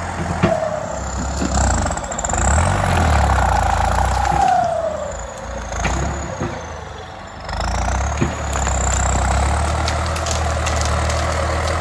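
Farm tractor's diesel engine running and revving up and down, with a whine that glides up and down in pitch; the engine eases off about seven seconds in, then picks back up.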